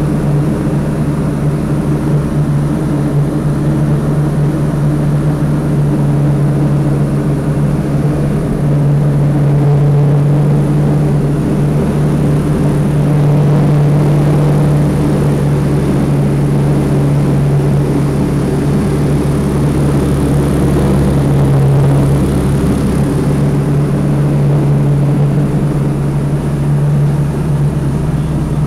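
Diamond DA20 Katana light aircraft's piston engine and propeller droning steadily, heard from inside the cockpit, with only slight rises and falls in level.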